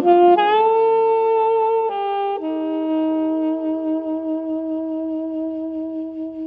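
Freshly overhauled 1974 Selmer Mark VI alto saxophone playing two or three short notes, then holding one long low note from about two and a half seconds in that slowly fades near the end.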